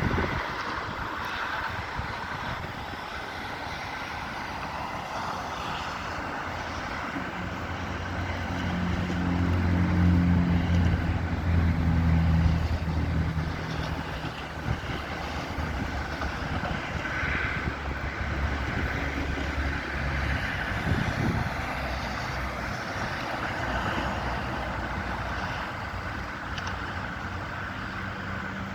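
A motor vehicle's engine running low and steady as it passes, growing louder to a peak about ten to thirteen seconds in and fading out by about twenty seconds, over a steady background hiss.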